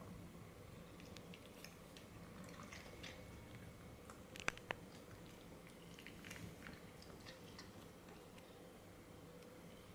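A cat chewing treats taken from a hand: faint, irregular crunching clicks, with two sharp clicks about halfway through.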